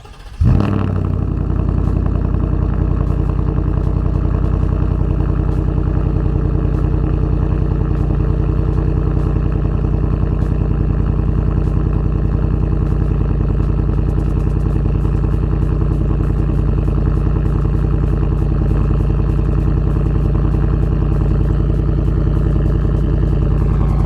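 2022 Ford F-150's 5.0 L V8, exhaust with muffler and resonator deleted, cold-started: it fires with a sudden loud burst about half a second in, then settles into a steady idle.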